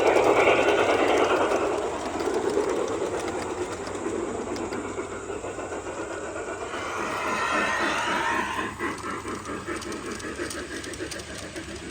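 A train running along its track. Quick clicking over the rails comes in during the second half.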